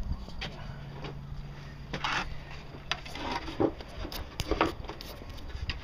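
Wooden boards and 2x4s being handled and fitted for boat seats: scattered knocks and short scrapes of wood on wood, with a sharp knock near the end.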